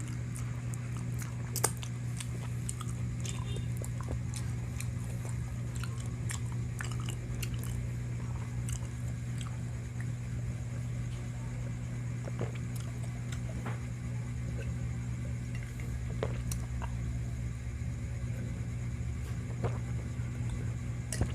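A person chewing and biting into spicy chicken close to the microphone, with scattered small crunches and clicks over a steady low hum.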